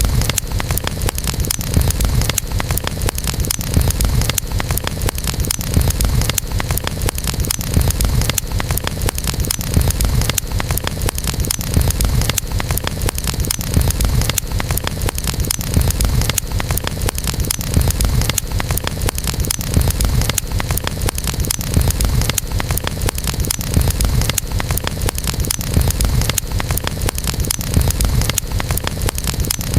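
Campfire crackling: a dense stream of small pops and snaps over a steady low rumble of burning wood.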